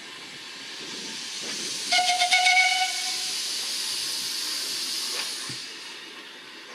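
A long hiss of escaping pressure swells up and fades away, with a brief fluttering, whistle-like tone about two seconds in.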